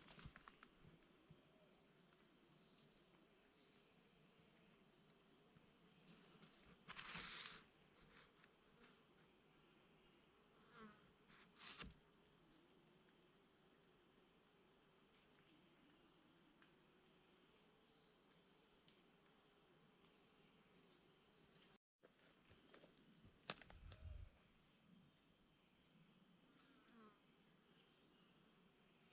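Steady high-pitched drone of an insect chorus, with a few faint clicks; the sound cuts out for an instant about two-thirds of the way through.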